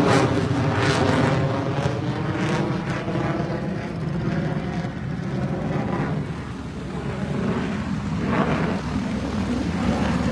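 Propeller aircraft flying past, its engine note dropping in pitch as it goes by and then fading into a steadier, more distant drone.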